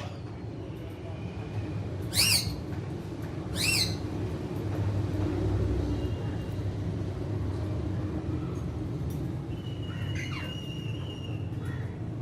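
A parrot gives two short, shrill calls, about two seconds in and again a second and a half later, over a steady low rumble.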